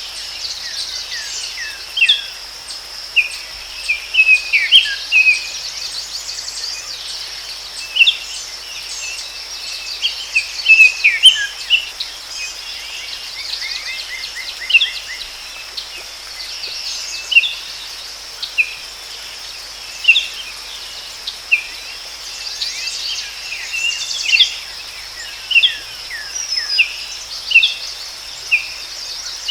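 Forest birds chirping: many short calls, some sliding down in pitch, with a quick trill near the middle, over a steady high insect drone.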